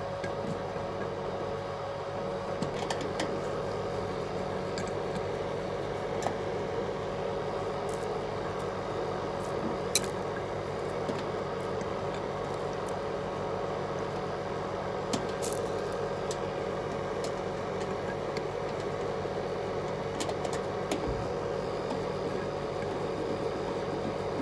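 A small machine motor running steadily with an even hum, with a few light clicks over it.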